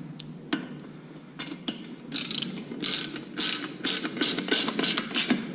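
Ratchet wrench clicking as it tightens a bolt on a motorcycle slip-on exhaust: a few single clicks, then from about two seconds in a run of quick back-and-forth strokes, two or three a second.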